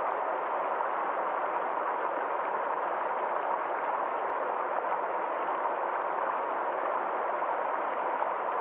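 Small forest stream flowing and splashing over rocks, a steady even rush of water.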